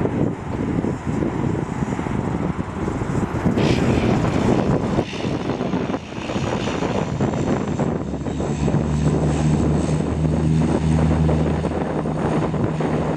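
Jetstar airliner's engines running, a broad steady rumble. About eight and a half seconds in, a low steady hum with a second tone above it comes in over the noise.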